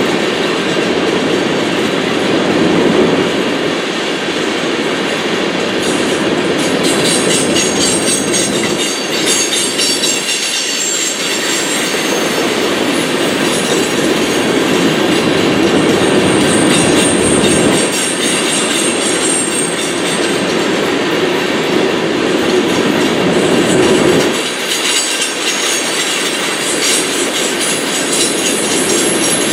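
Freight train cars rolling steadily past on the track, wheels clacking over the rails, with a faint high wheel squeal that comes and goes.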